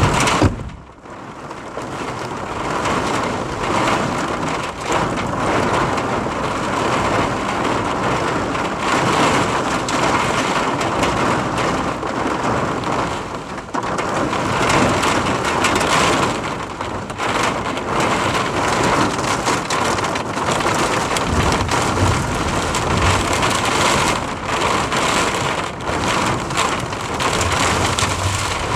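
Heavy rain pouring down in a squall, with strong gusting wind making the noise swell and ease.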